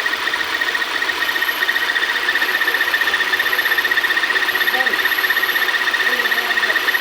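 Audi A4 TFSI engine running with a steady, high-pitched whine that pulses rapidly: the engine noise fault being checked.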